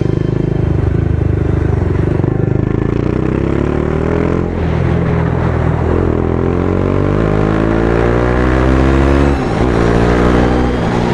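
BMW G310R's single-cylinder engine running through an aftermarket Austin Racing exhaust. It pulses at low revs, then climbs steadily in pitch as it accelerates from about four seconds in. It drops suddenly about nine seconds in and climbs again.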